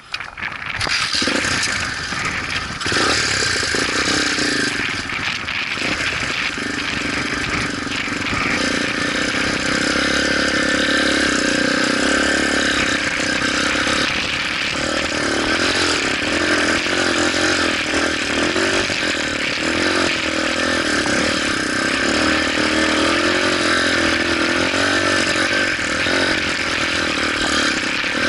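Motorcycle engine running. It comes in abruptly about half a second in and then runs steadily, its pitch rising and falling with the throttle.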